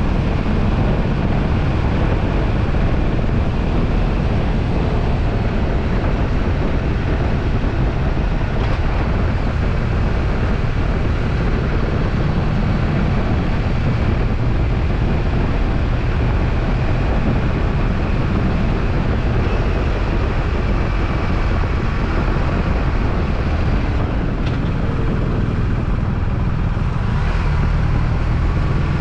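BMW R1250RT's boxer-twin engine running at a steady cruise while riding, under heavy wind rush on the microphone.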